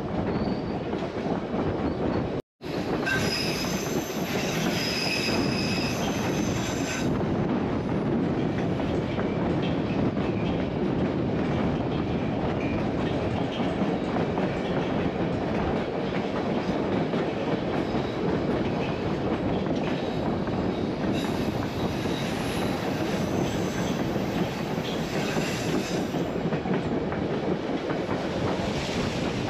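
A narrow-gauge passenger train running with a steady rumble of wheels on rail. High wheel squeal sounds for a few seconds just after a brief break in the sound near the start, and again more faintly later on.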